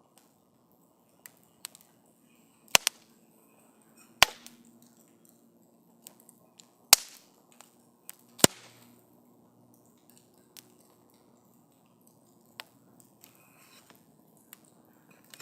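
Wood campfire crackling: irregular sharp pops and snaps, four of them much louder than the rest, over a faint steady background.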